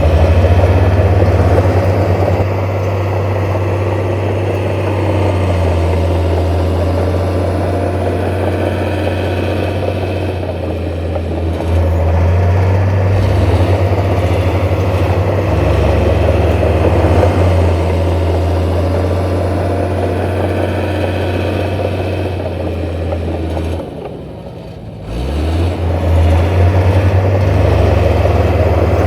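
Heavy diesel engine of earthmoving machinery running steadily under work, with a deep, constant drone. A little before the end it briefly drops away, then rises back to speed.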